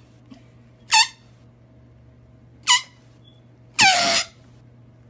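Husky puppy yelping: three short, high cries that fall in pitch, the last one about half a second long and the loudest.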